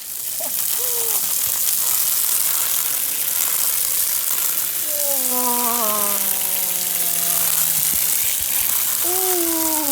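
Hose spraying a steady hissing jet of water onto toy trucks to wash off the mud, starting abruptly. A voice lets out two long, falling exclamations partway through and near the end.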